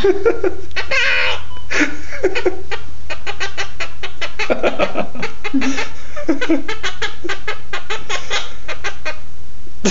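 Blue Quaker parrot (monk parakeet) chattering: a fast run of clicks mixed with short squawky calls.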